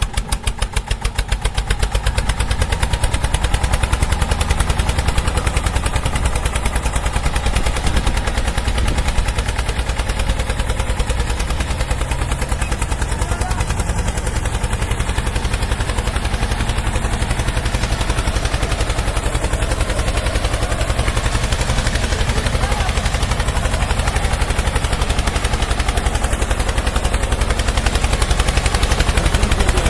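A vehicle engine running with a rapid, even pulsing beat. Over the first couple of seconds it speeds up and gets louder, then holds steady.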